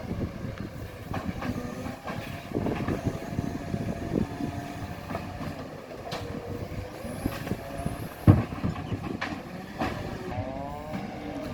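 Garbage truck running, with frequent rattles and knocks, one loud bang about eight seconds in, and a rising whine near the end.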